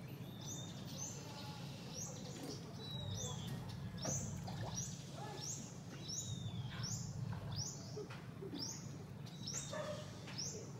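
Bird calling over and over in short high chirps, about one or two a second, with now and then a longer falling whistle.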